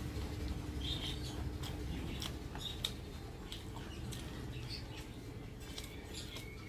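Close-up eating sounds from chewing a mouthful of rice and fish curry eaten by hand: soft wet mouth clicks and small squeaky smacks, scattered irregularly over a low steady hum.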